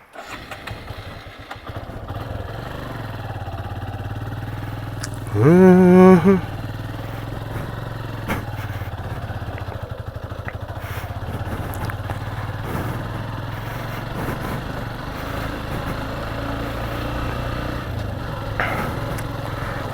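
Motorcycle engine coming in about a second in and running steadily as the bike rides along. A little over five seconds in, a brief loud wavering vocal sound from the rider cuts in over it.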